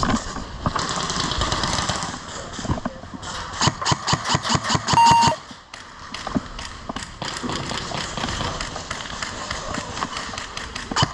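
Airsoft guns firing: a fast run of sharp shots about six a second, three to five seconds in, then scattered single shots. A short electronic beep sounds at about five seconds.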